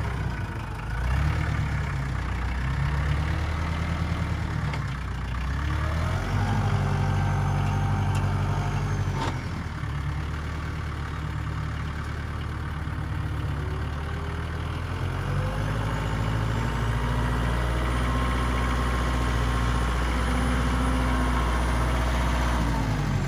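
Tractor engine running and revving up and down several times under work, with one sharp knock partway through.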